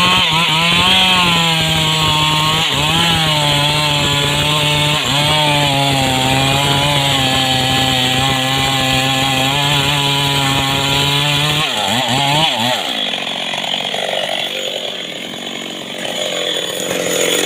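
Homemade two-stroke chainsaw running under load while cutting mahogany, its engine note held steady with brief dips. About twelve seconds in the engine revs and its note falls away, leaving a rougher, noisier sound.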